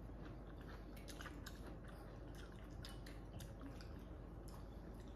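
Two people chewing and eating, faint: soft wet mouth smacks and small clicks scattered irregularly, with light chopstick taps at their rice bowls.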